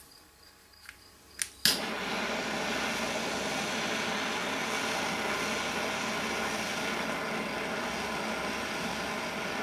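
A few light clicks, then about a second and a half in a steady rushing hiss starts and keeps on: a heating tool running to melt the solder back out of a throttle cable end.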